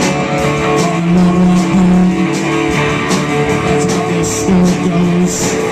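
Rock band playing live with no vocals: guitar chords over a drum beat, with two cymbal crashes near the end.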